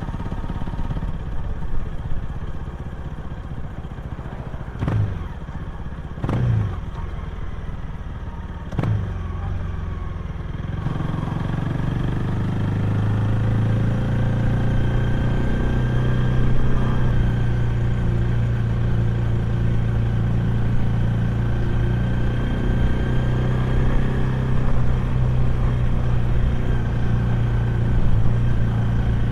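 Honda Rebel 250 motorcycle exhaust while riding. It is quieter at first, with three short sharp sounds. About eleven seconds in it picks up into a strong, steady engine note that holds.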